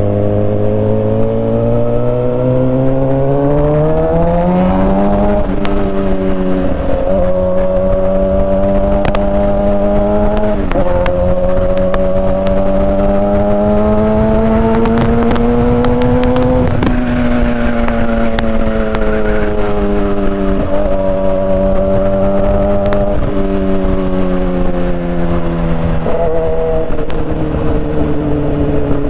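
Suzuki GSX-R 750's inline-four engine under way, revving up hard over the first five seconds. The engine note dips briefly about five, seven and ten seconds in, climbs slowly to its highest pitch just past halfway, then eases off gradually.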